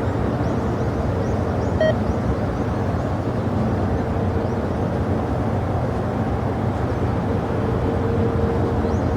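Jet airliner engines running at the airport: a steady low rumble with a constant whine, unchanging throughout. There is a short beep about two seconds in.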